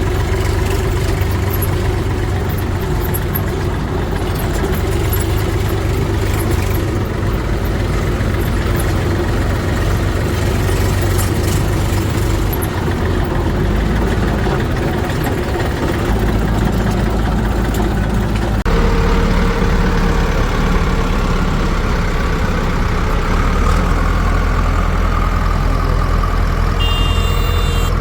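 Heavy diesel engine of farm or earthmoving machinery running steadily, its note changing abruptly about two-thirds of the way through.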